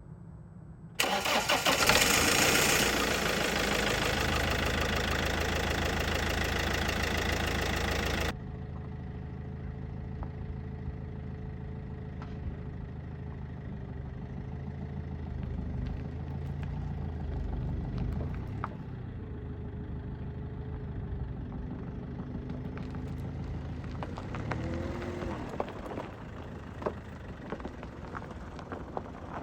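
A motor vehicle's engine starts about a second in and runs loud. At about eight seconds the sound changes abruptly to a quieter, steady engine hum with scattered light clicks.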